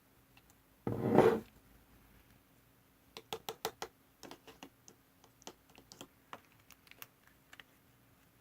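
Slime-making materials being handled: one short loud noise about a second in, then a run of light, irregular clicks and taps, a few a second.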